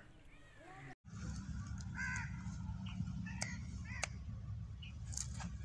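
A few short bird calls, about a second apart, over a steady low rumble.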